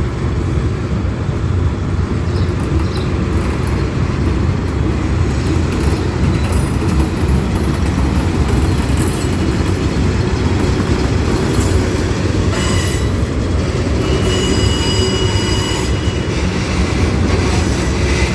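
Freight train rolling past, a steady loud low rumble of wheels and cars on the rails, with a thin high wheel squeal coming in about two-thirds of the way through.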